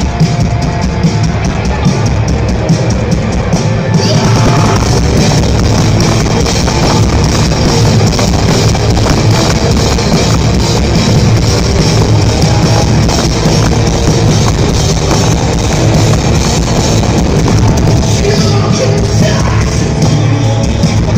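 Live heavy rock band playing loud and dense: drum kit and amplified instruments with some vocals, the sound getting fuller and brighter when more of the band comes in about four seconds in.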